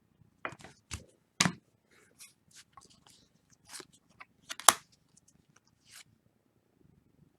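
Football trading cards and their plastic packaging handled: a string of short crinkles, rustles and clicks at irregular intervals, the sharpest about a second and a half in and near five seconds in.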